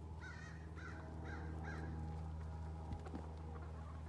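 A bird gives a quick run of four or five short, harsh calls in the first couple of seconds, over a steady low hum.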